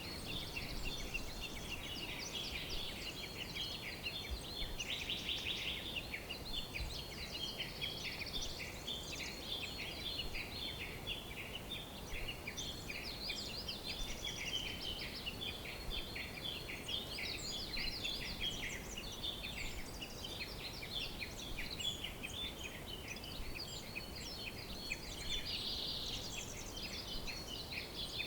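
Many small birds chirping and trilling at once, a dense chorus of quick high notes that never pauses, over a steady low background hiss and rumble.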